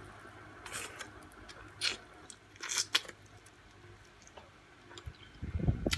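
Close-up mouth sounds of a person eating chicken wings and fries: a few short, crisp bites and chews with pauses in between.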